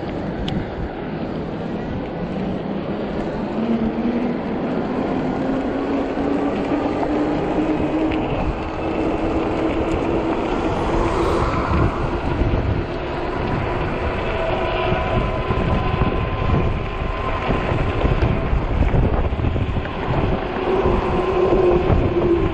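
Riding a 48 V fat-tire e-bike into strong wind: heavy wind buffeting on the microphone over the whine of the bike's drive and tyres on the road. The whine climbs in pitch over the first several seconds as the bike picks up speed, then holds steady.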